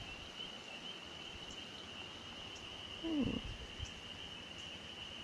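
A steady high-pitched chorus of calling animals in the background, with a brief low murmur falling in pitch about three seconds in.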